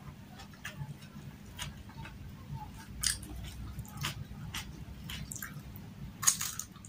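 Close-miked eating by hand: chewing with wet mouth clicks and smacks, scattered throughout, the loudest about three seconds in and a longer noisy one near the end.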